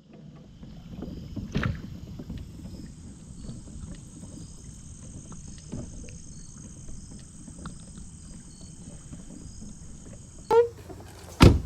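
Water sloshing around a fishing kayak, with light knocks and ticks on the hull. Two louder knocks come near the end.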